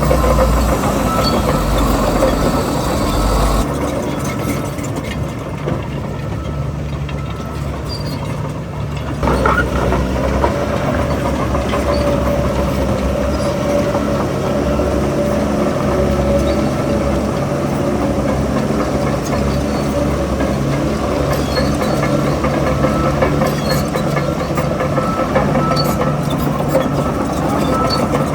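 Heavy diesel engine of earth-moving machinery running steadily. Its deep rumble thins out a few seconds in and comes back strongly after about five seconds.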